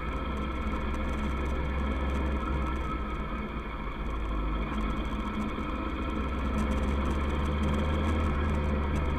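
Kawasaki ER-6f's parallel-twin engine running steadily, dipping briefly about three and a half seconds in and picking up again a little after six seconds.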